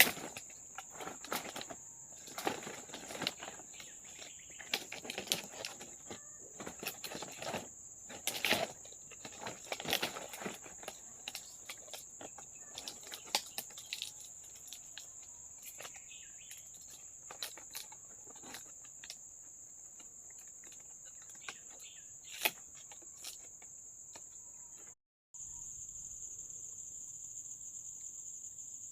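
Steady high-pitched chirring of insects. For most of the first two-thirds it is overlaid with irregular clicks and knocks from hands at work. The chirring breaks off briefly near the end, then returns a little louder.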